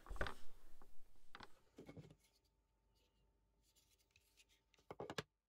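Plastic Govee water leak sensors being handled: a few light knocks and rubbing in the first two seconds, then quiet, then a short cluster of clicks about five seconds in.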